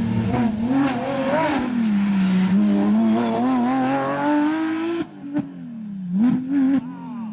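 Porsche competition car's engine pulling hard, its pitch climbing and dropping back with each gear change. Near the five-second mark the sound drops suddenly, then comes a few short sharp cracks as the revs fall and pick up again.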